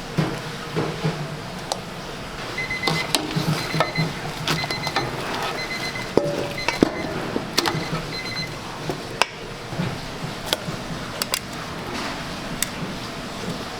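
Kitchen work sounds: a run of sharp clicks and knocks, with a few short, high electronic beeps repeating between about 3 and 8 seconds in.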